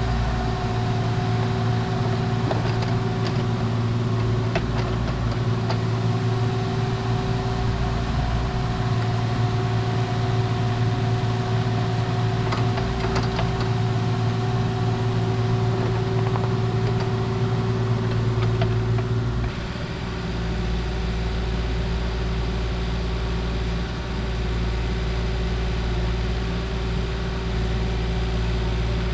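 A vehicle engine running steadily at a constant speed. About two-thirds of the way in, its note shifts to a lower rumble.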